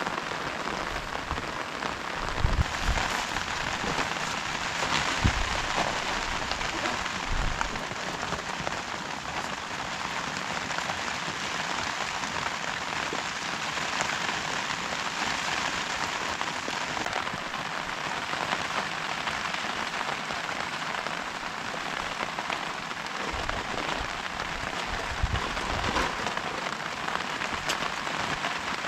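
Heavy rain falling steadily, with a few dull low thumps scattered through it.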